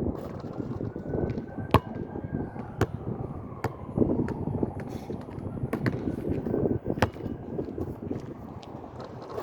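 Wind buffeting the microphone in uneven gusts, broken by a few sharp clicks. A faint tone slowly rises and falls behind it.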